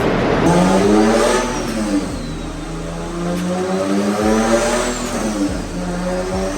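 Car engine accelerating: the revs climb, drop at a gear change, run steady for a couple of seconds, then climb and drop again.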